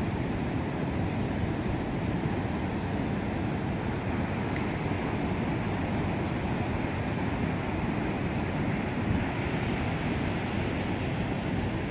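Ocean surf washing steadily on the shore, with a low rumble of wind on the microphone.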